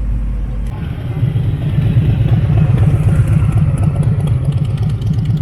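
A low steady hum gives way, under a second in, to a muscle car's engine idling with a deep, uneven rumble.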